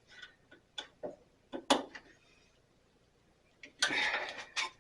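Metal hand tools clicking and clinking on the bandsaw as a wheel is snugged down: a few separate sharp clicks, then a brief clattering rattle about four seconds in.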